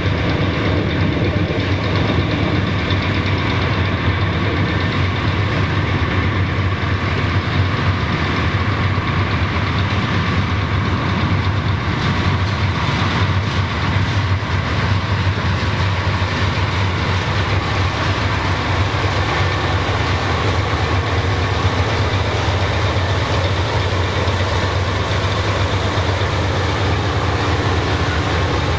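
Diesel freight locomotives running steadily with a deep engine hum as the train rolls slowly past, its rail cars rumbling along the track.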